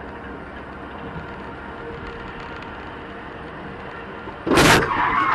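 Steady road and engine noise heard inside a moving car. About four and a half seconds in, a sudden loud burst of noise breaks in, and louder, rougher noise follows.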